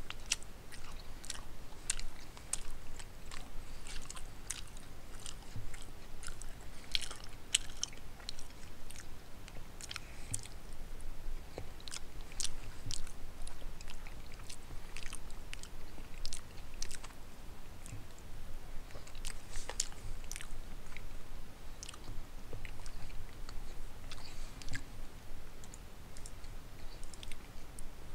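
A person chewing a mouthful of pot roast, carrots and potatoes with the mouth closed, making many irregular small wet clicks and smacks.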